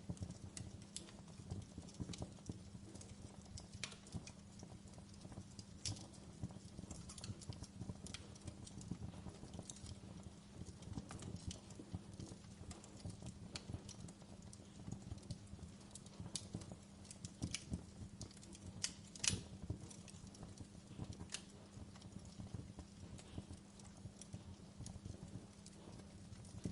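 Wood fire in a fireplace crackling: irregular sharp pops and snaps over a low steady rumble of the flames, one louder pop about two-thirds of the way through.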